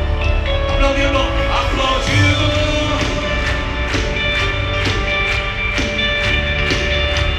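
Live worship band playing an upbeat praise song, with sustained keyboard and guitar notes, a driving drum beat about twice a second and faint singing.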